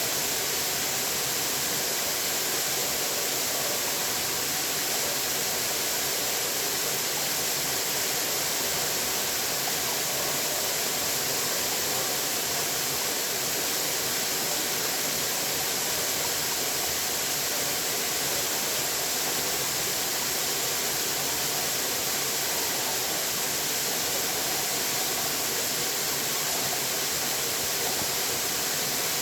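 Running water rushing steadily, an even hiss with no separate splashes or drops.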